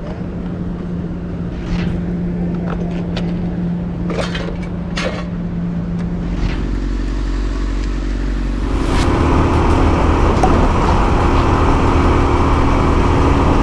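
Motor vehicle engine running with road noise, with a few sharp clicks in the first half. The engine note changes about six seconds in, and about nine seconds in it grows louder under a rushing roar.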